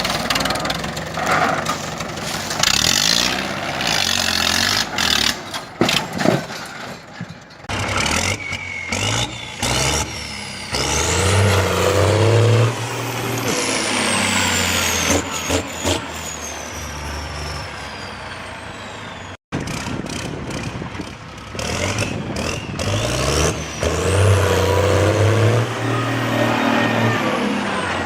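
Tractor engines revving and labouring, twice rising in pitch, across several short clips joined by abrupt cuts.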